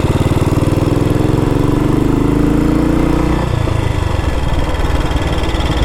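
Single-cylinder four-stroke engine of a 1962 Matchless G80CS scrambler running. Its revs climb gently, then drop back about three and a half seconds in.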